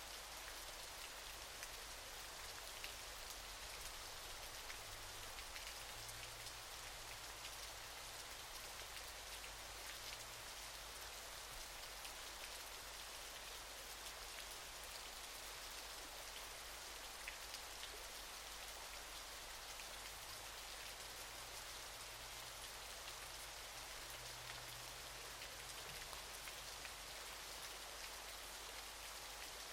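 Waterfall: a steady, even rush of falling water with fine splashing.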